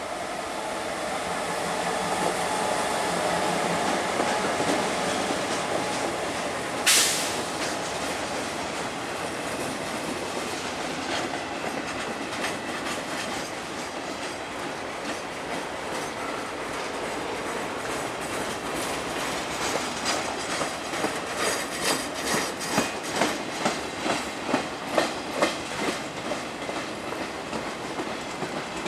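Diesel-led freight train passing: the locomotive's engine running loudly in the first few seconds, a single sharp bang about seven seconds in, then freight cars rolling by with a steady clickety-clack of wheels over rail joints that grows more pronounced in the last ten seconds.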